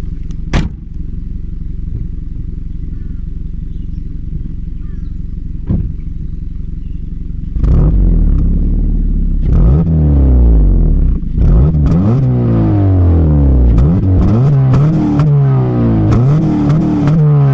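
2006 Honda Civic Si's 2.0-litre four-cylinder with an Injen intake idling steadily, with a couple of sharp clicks, then revved again and again from about seven and a half seconds in: repeated blips that rise and fall in pitch.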